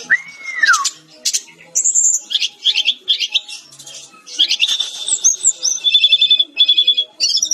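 Sikatan-rimba dada-coklat (brown-chested jungle flycatcher) singing a fast, varied song of high chirps and trills. It opens with a clear whistle that arcs up and then falls, and ends with a quick stuttering run of one repeated note.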